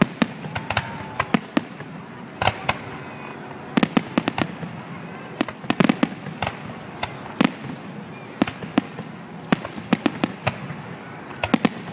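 Fireworks display: many sharp bangs of exploding shells at irregular intervals, some coming in quick clusters of two or three.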